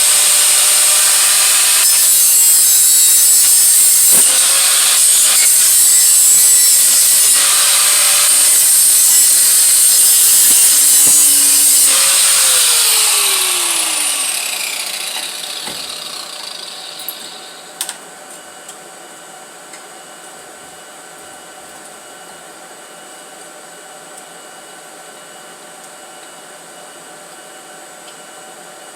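Handheld rotary power tool grinding on the steel exhaust head pipe, a loud hissing grind for about twelve seconds. Its whine then falls in pitch as the tool spins down, leaving a quiet shop with a single small click.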